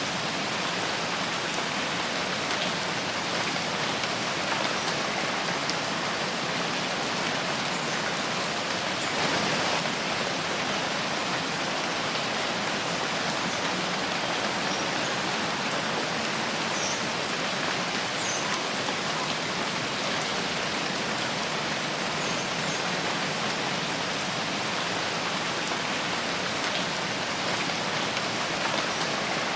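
Steady rain falling in a forest: an even hiss with scattered ticks of single drops, briefly a little heavier about nine seconds in.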